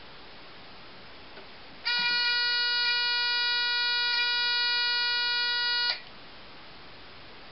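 Alarm buzzer of a homemade, AA-battery-powered earthquake detector sounding one steady, fairly high tone. It starts about two seconds in and cuts off sharply about four seconds later. The detector has been set off by shaking.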